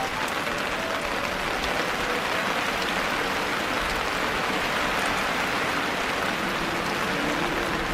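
Steady rain falling, an even wash of noise with no break.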